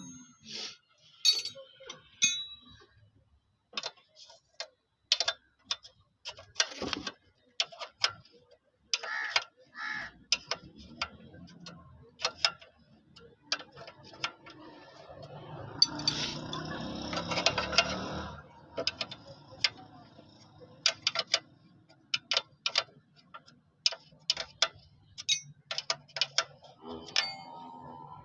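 Irregular metallic clicks and taps of hand tools at work while a new battery is fitted to a tractor, with a louder stretch of rustling and clattering about halfway through.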